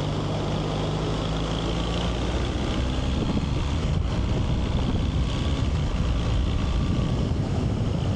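Motorcycle engine running while riding, with wind buffeting the microphone. A steady engine note gives way about two seconds in to a rougher, lower rumble that grows a little louder.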